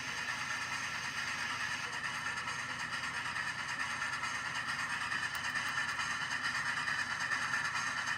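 A passing train on the rails, a steady hiss and running noise that slowly grows louder.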